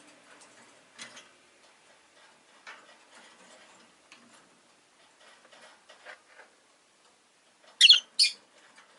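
Rosy-faced lovebird giving faint, scattered squeaky chirps, then two loud, sharp, high chirps in quick succession near the end.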